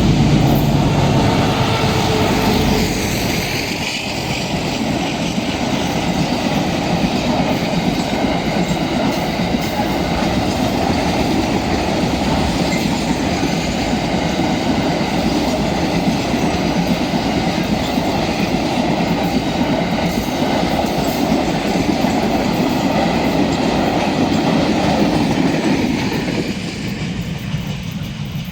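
Freight train of timber wagons rolling past: steady clatter and rumble of wheels on the rails. A steady engine tone at the start fades within the first few seconds, and the noise drops away a couple of seconds before the end as the last wagons pass.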